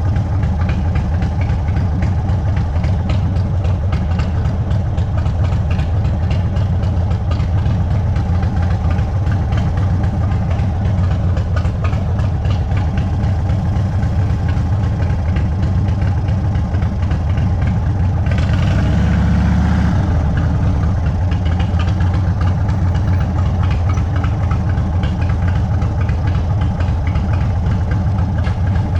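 Indian Sport Chief's V-twin running at low revs through a Sawicki Speed aftermarket exhaust, a steady low-pitched sound. About two-thirds of the way through it swells briefly with a hiss before settling back.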